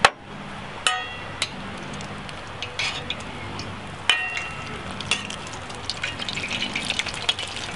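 Breadcrumbed goat's cheese shallow-frying in oil in a stainless steel pan, with a metal spoon clinking against the pan a few times, each clink ringing briefly, as the pieces are turned. The sizzle grows busier toward the end.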